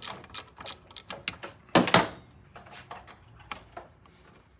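Irregular metallic clicks and clinks of hand tools and loose engine parts being handled during an engine teardown, with a louder clatter of knocks about two seconds in.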